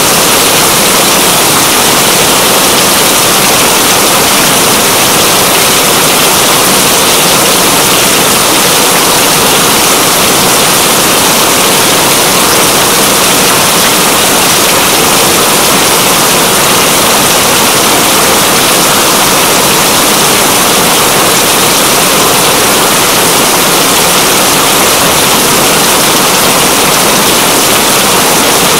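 Steady, loud rain: a dense, even hiss with no pauses.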